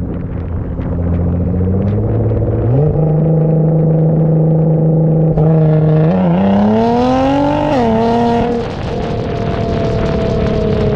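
Nissan GT-R R35's twin-turbo V6 engine and exhaust under way. The engine holds steady revs at first, then rises in pitch for a couple of seconds about six seconds in, drops sharply near eight seconds, and slowly falls off after that.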